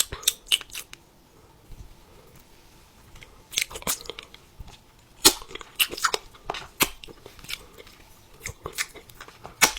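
Crunchy food being chewed, in irregular clusters of sharp crunches, with a quiet pause of about two and a half seconds after the first second.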